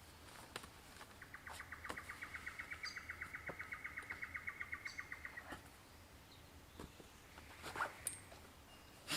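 A bird's rapid trill of evenly spaced notes at one steady pitch, about eight a second, lasting about four seconds, with short high chirps from other birds. A couple of sharp knocks near the end.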